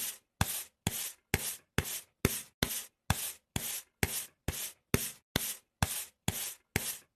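Rhythmic scraping strokes, about two a second, each starting sharply and cutting off to silence between strokes.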